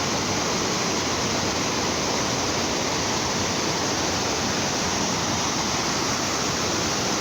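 Steady rushing of fast-flowing water, a river or stream swollen by heavy hurricane rain.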